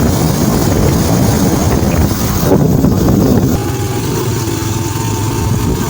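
Motorcycle engine running on the move, with wind buffeting the microphone. About three and a half seconds in, the wind noise drops and a steadier, quieter engine note comes through.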